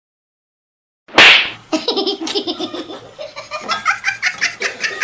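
About a second of silence, then a loud sudden burst, followed by a person laughing in quick repeated pulses.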